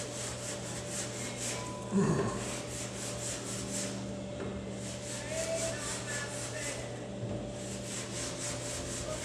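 A fine-grade clay bar dragged back and forth over waxed car paint crusted with fusion bonded epoxy overspray, a gritty rubbing in quick repeated strokes as the clay picks up the overspray. The strokes pause briefly now and then, and there is a short thump about two seconds in.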